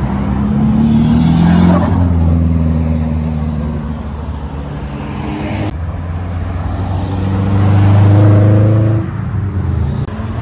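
Car engines accelerating away under load, rising in pitch. One pull swells to its loudest about two seconds in, and another builds to a peak near the end before easing off sharply.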